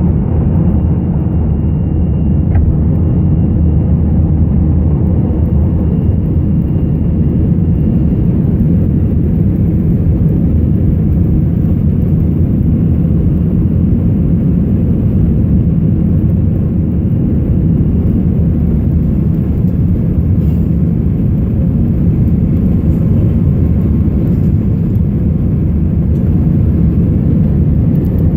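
Airliner cabin noise during takeoff and climb: the steady, deep drone of the jet engines and rushing air, heard from inside the passenger cabin.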